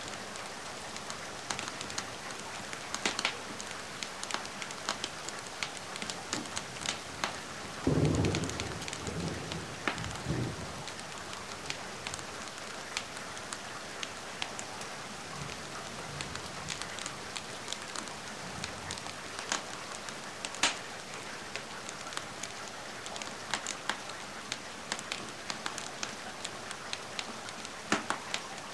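Steady rain mixed with a crackling wood fire, with sharp pops and ticks scattered throughout. About eight seconds in, a short low rumble of thunder lasts around three seconds.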